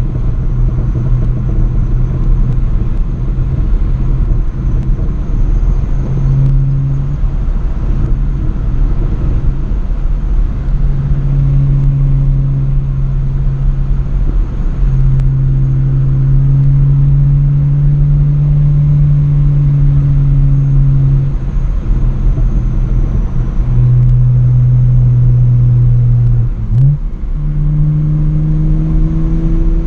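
BMW E90 with a straight-piped exhaust, driving with a loud, deep, droning exhaust note. The note holds steady for several seconds at a time and steps up and down in pitch, with a brief dip and a quick jump in pitch near the end.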